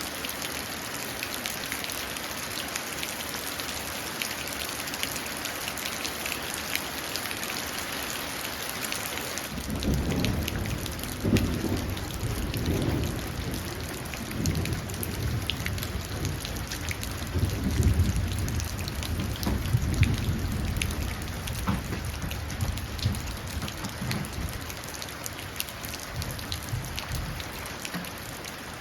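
Steady rain falling and running into puddles, with a long roll of thunder that starts about a third of the way in, rumbles in waves for around fifteen seconds and fades out.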